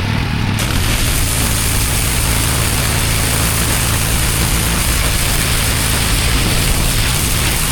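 Pressure washer's engine running steadily under a constant hiss of high-pressure water spraying.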